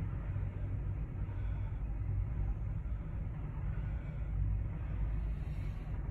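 Low, steady rumble of an approaching freight train's diesel locomotives, heard from a distance.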